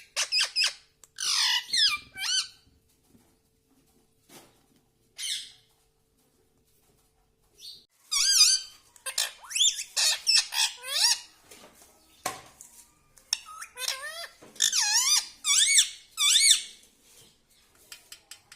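Pet ringneck parrot squawking and chattering in high, warbling calls. They come in bursts with a quiet gap near the middle, then two quick, busy runs of calls, broken by a single sharp click.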